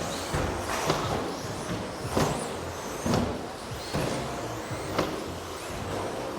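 Radio-controlled electric off-road stadium trucks racing past, their motors whining in short rising and falling pitches over a steady rush of tyre and track noise.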